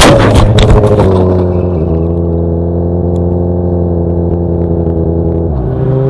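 Suzuki GSX-R600 sportbike engine. Loud rushing noise and sharp rattles fade out about a second in. The engine then runs at a steady, low, even speed, and its pitch steps up near the end.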